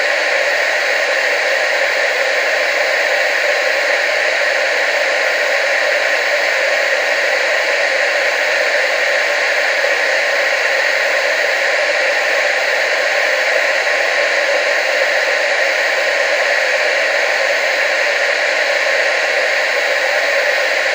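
TV static: a steady, even hiss with no change, strongest in the upper-middle range and thin in the bass.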